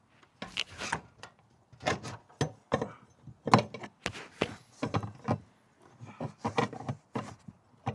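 Irregular knocks, clunks and clicks of hands and tools working a stubborn fitting into place on a replacement fuel tank, many in quick succession, the loudest about three and a half seconds in.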